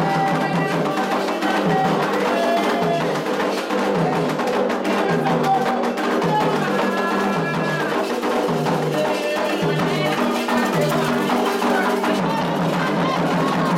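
Candomblé toque: atabaque hand drums playing a steady rhythm with a struck bell or percussion pattern and voices singing.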